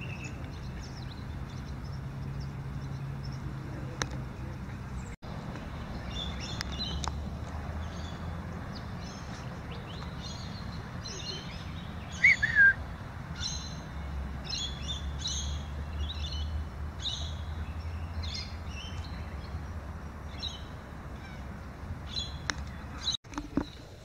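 Birds chirping over and over in short high calls, with one louder falling call about twelve seconds in, over a steady low rumble.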